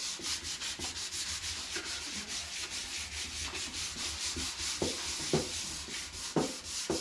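Sandpaper being rubbed by hand over painted wooden drawers, stripping the white paint, in quick back-and-forth strokes several times a second. A few dull knocks come in the second half.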